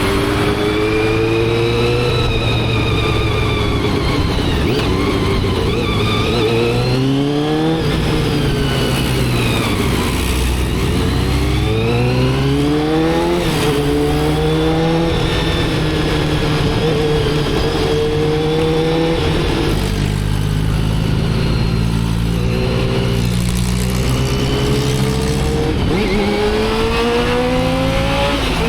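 Motorcycle engine pulling through the gears: its pitch climbs under throttle and drops sharply at each upshift, several times over, with stretches of steady cruising between.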